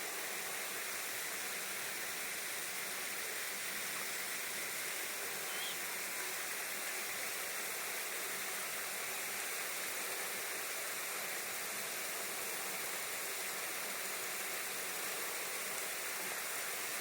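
Steady, even rushing hiss at a constant level, with one brief faint high chirp about five and a half seconds in.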